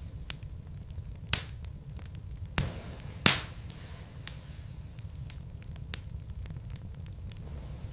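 Wood fire burning in a fireplace: a steady low rumble with scattered crackles, and three louder pops from the logs about a second and a half to three and a half seconds in.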